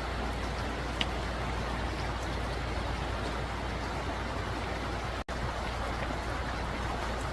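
Steady rushing of a river's flowing water, an even hiss with no distinct events. It cuts out briefly about five seconds in.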